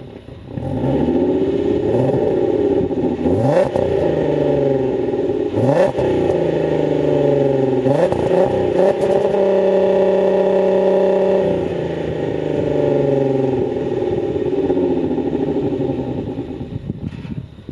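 VR6 3.6-litre engine revved while standing, exhaling through a Varex valved muffler: three quick blips, then revs held high for about two seconds before falling back, and a slower rise and fall before it settles near the end.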